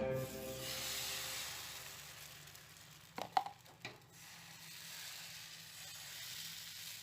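Faint sizzling from a pan on the stove, with a few light clicks of a utensil about three to four seconds in, after music fades out at the start.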